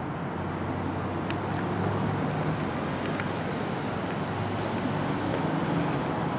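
A motor vehicle engine running steadily, a low even hum, with street traffic noise.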